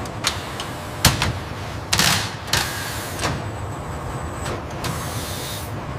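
Tractor assembly-line noise: a few sharp metallic knocks about a second in, then short bursts of compressed-air hiss, with a longer hiss near the end, over a steady factory din.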